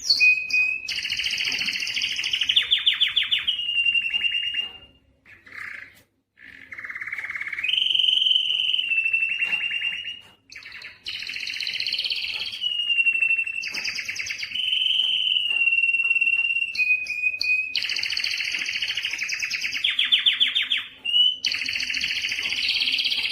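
Spanish Timbrado canary singing: phrases of fast rolling, rattling trills alternate with long steady high notes. There are brief pauses about five and ten seconds in.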